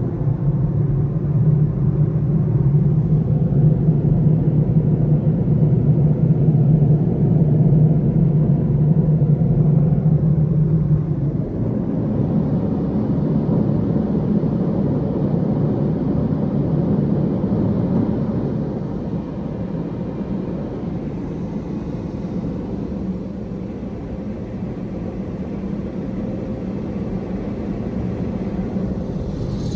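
Steady low mechanical rumble from an automatic car wash, with a strong hum that drops away about eleven seconds in, leaving a softer rumble.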